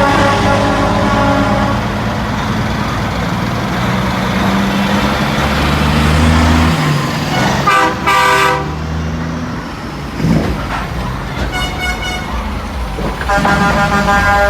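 Parade trucks passing with engines running and horns honking: a loud horn blast about eight seconds in, a higher-pitched one around twelve seconds, and another near the end.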